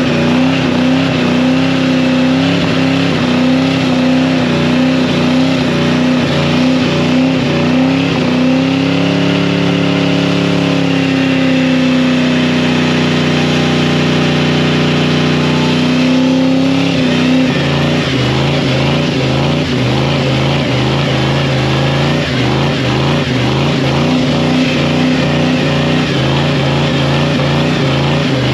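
Truck engine held at high revs during a burnout, its pitch swelling upward for several seconds about a third of the way in, then dropping sharply to a lower steady speed a little past halfway.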